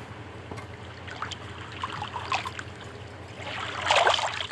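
Water trickling and lapping against a small sailboat's hull, with light clicks and, about four seconds in, a louder short clatter of handling noise.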